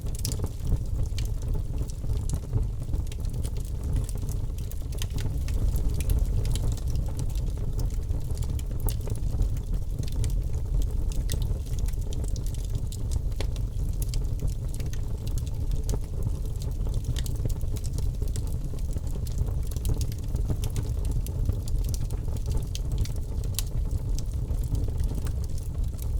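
Campfire burning, with many small crackles and pops over a steady low rumble.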